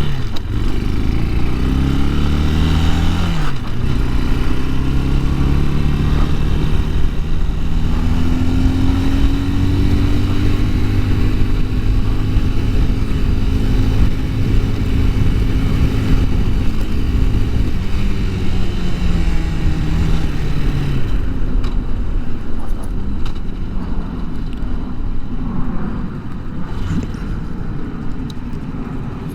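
Bashan Brozz 250 dual-sport motorcycle engine pulling away, its pitch climbing, with a gear change about three and a half seconds in. It climbs again and holds a steady pitch while cruising, then falls in pitch as the bike slows after about twenty seconds. A rushing noise runs under the engine throughout.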